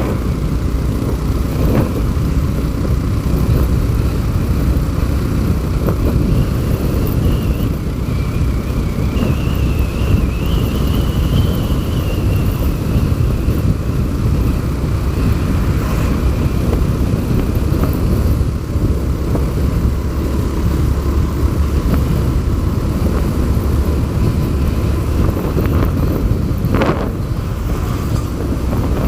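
Steady low rumble of a vehicle travelling on the road, with a faint high whine that rises and falls.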